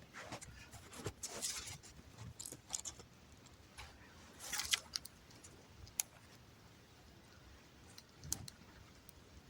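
Small dry twigs rustling and snapping as they are handled and laid around a newly lit fire, in short irregular bursts, with a few isolated sharp cracks later on.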